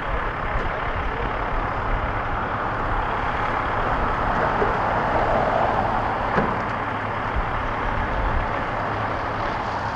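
Steady noise of vehicle engines running at the scene, with a low hum underneath and a swell in the middle, like a vehicle passing.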